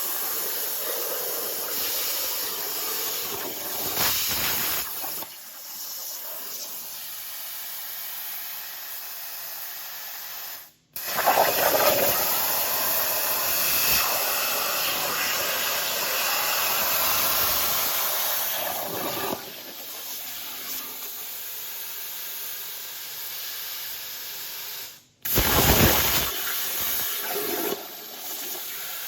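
Plasma cutter hissing steadily as it cuts aluminum, stopping abruptly twice for a moment and starting again louder.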